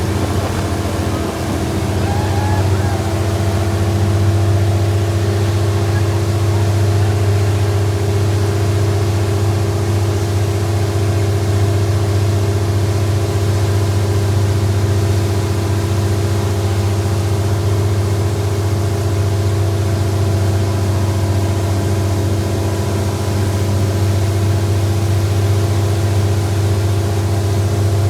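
A boat's engine running steadily, building a little about two seconds in and then holding even.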